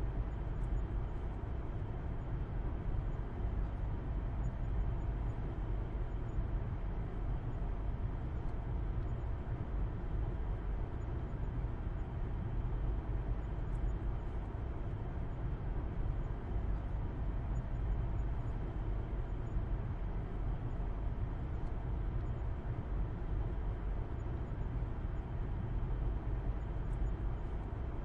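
Steady low rumble of a car driving at a constant speed, engine hum and road noise as heard from inside, with no changes in pace.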